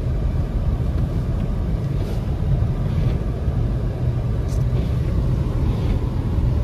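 Steady low rumble of a car driving in a snowstorm, heard from inside the cabin: road and engine noise.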